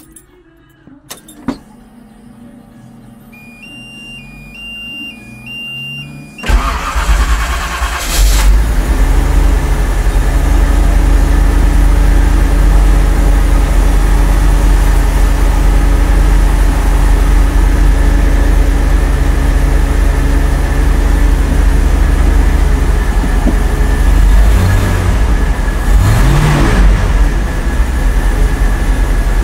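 Vector W8's twin-turbo V8 being started: a few clicks and a pulsing electronic beep, then about six seconds in the engine fires with a flare and settles into a steady idle around 1000 rpm. Near the end it is briefly revved and drops back to idle.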